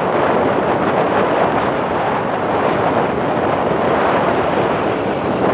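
Steady loud rushing noise of wind blowing on the microphone.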